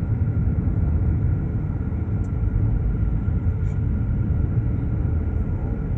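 Steady low rumble of a car driving on a snow- and ice-covered road, engine and tyre noise heard from inside the cabin, with a few faint ticks.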